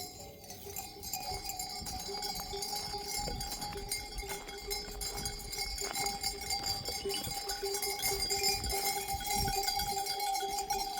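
Livestock bells clinking irregularly as a grazing flock moves, over a steady two-tone drone.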